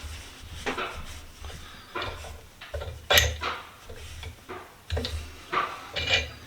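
A series of short metal clinks and knocks from small steel vise parts being handled, about eight in all, the loudest and most ringing one about three seconds in.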